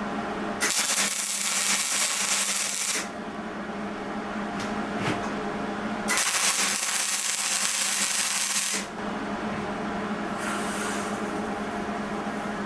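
Power tool worked on the sawmill build in two loud stretches of about two and a half seconds each, with a shorter, fainter one near the end, over a steady machine hum.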